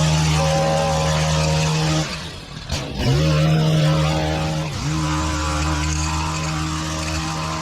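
Small petrol engine of lawn-care equipment running hard. About two seconds in it eases off and drops in pitch for a moment, then revs back up; it dips again briefly near five seconds.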